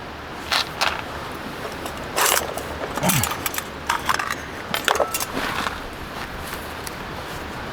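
Small metal objects clinking and clattering in a handful of short bursts, one leaving a brief ring.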